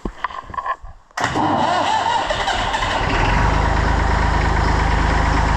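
Volvo BM Buster 320 tractor engine starting: a few short sounds, then it catches suddenly about a second in, runs unevenly for a couple of seconds and settles into a steady idle.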